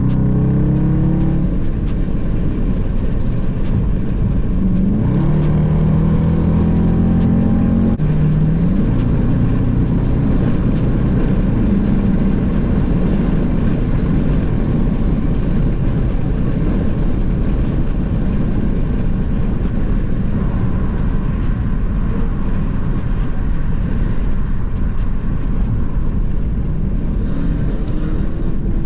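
Dodge Charger's V8 engine pulling on the highway, its note shifting pitch a few times in the first eight seconds, then settling into a steady cruising drone with road noise.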